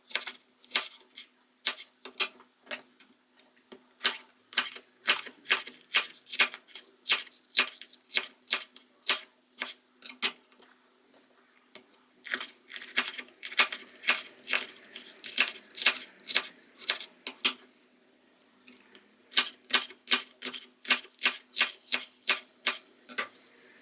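Knife chopping on a cutting board: runs of quick, even strokes, about three a second, stopping briefly a few times, over a faint steady hum.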